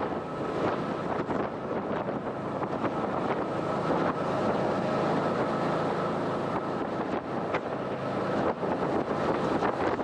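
Jet boat running at speed: a steady rush of engine and water jet, with wind buffeting the microphone.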